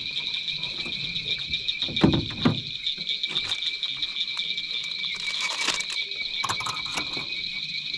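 Steady, high-pitched pulsing chorus of night insects and frogs in a swamp. Two heavy, dull knocks come about two seconds in, and a short hiss comes about five seconds in.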